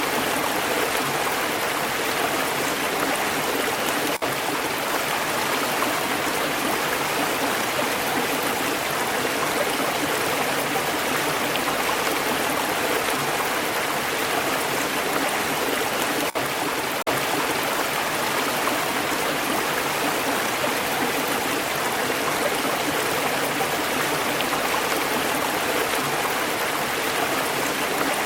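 Stream water flowing steadily, an even rushing and trickling, broken only by three very short dips in level: one about four seconds in and two a little past halfway.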